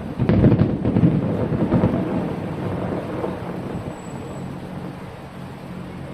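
Aerial fireworks shells bursting: a cluster of booms and crackles in the first two seconds, then a rumble that slowly dies away.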